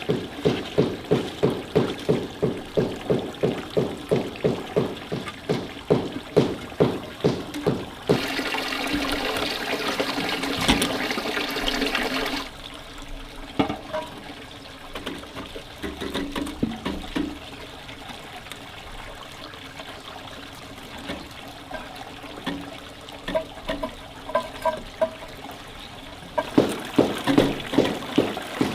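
Water pouring for about four seconds, a steady rush, framed by a rhythmic sound of repeated strokes about three a second at the start and again near the end; in between, quieter scattered knocks and faint trickling.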